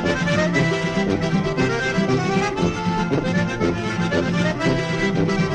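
Accordion (sanfona) playing a lively traditional Brazilian tune: a quick melody over rhythmic bass chords, with a steady beat.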